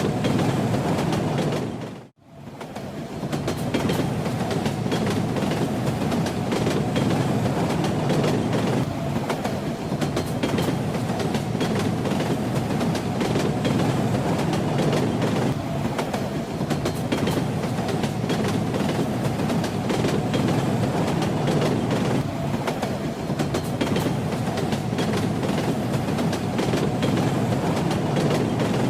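A moving train running steadily: a low rumble with the clickety-clack of wheels over rail joints. About two seconds in, the sound fades almost to nothing and swells straight back.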